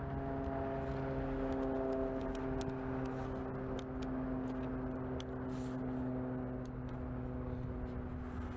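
A steady mechanical hum with a fixed pitch, over low wind rumble, with scattered light clicks and crinkles of masking tape being torn and pressed onto a tail light lens.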